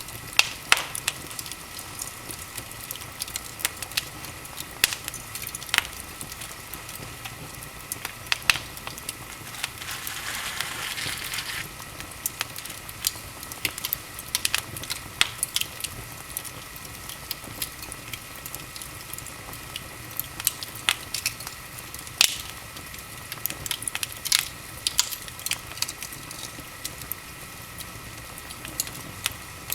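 Wood fire in a fireplace crackling: irregular sharp pops and snaps over a steady low hiss, with a short stretch of hissing about ten seconds in.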